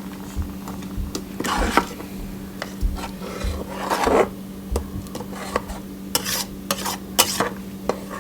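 A spoon stirring and scraping against a cooking pot of thick masala sauce, in irregular strokes with clicks against the pot, over a steady low hum.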